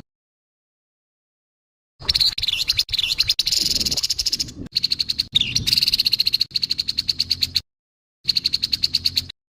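Grey-headed babbler giving its harsh call: a fast rattling series of rough notes, about ten a second. It starts about two seconds in and breaks off briefly near the end.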